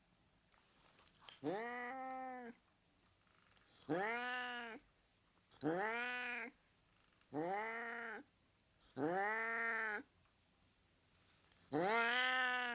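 A cat meowing six times, each meow about a second long and arching up and down in pitch, with short pauses between.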